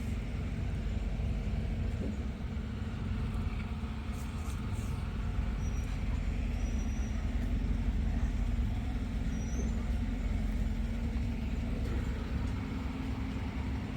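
Flatbed tow truck's engine running steadily with a low, even drone.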